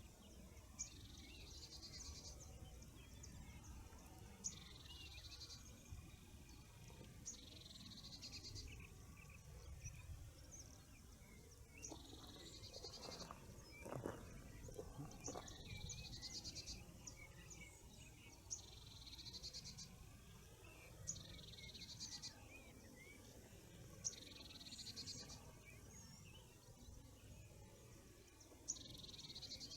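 Faint morning birdsong: a high, rapid trilled phrase of about a second repeats every two to three seconds, with scattered small chirps from other birds and a soft low background rumble.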